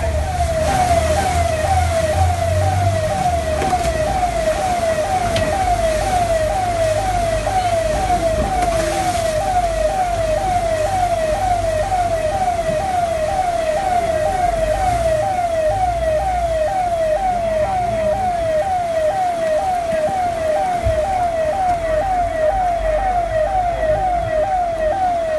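Electronic siren in a fast repeating yelp: each call a quick rising sweep, about two a second, over a low rumble.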